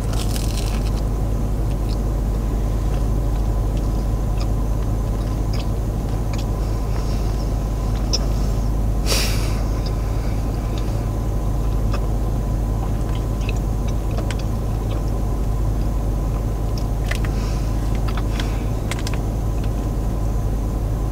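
Steady low rumble of a car idling, heard from inside the closed cabin, with small clicks of chewing and a brief rustle about nine seconds in.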